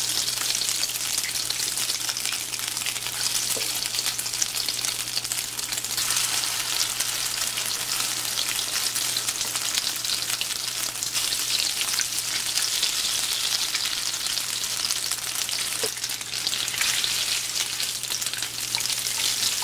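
Dried-shrimp and egg patties shallow-frying in hot oil in a skillet, a steady sizzle with dense crackling.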